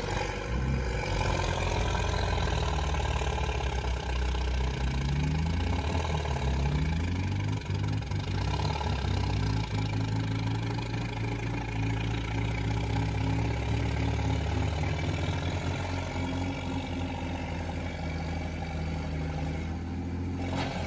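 Heavy machine's diesel engine running under load, its pitch rising and falling as it revs up and eases off.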